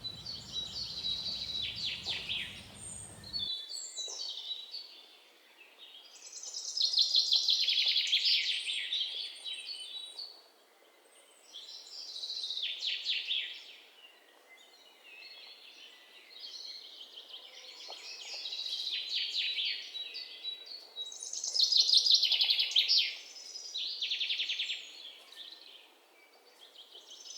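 Birdsong: fast, trilling phrases of a second or two each, repeated every few seconds.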